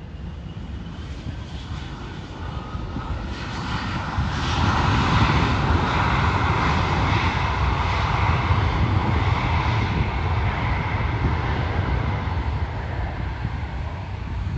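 Jet airliner's engines passing by, a low rumble with a whining tone that swells over the first few seconds, stays loud through the middle and eases slowly near the end.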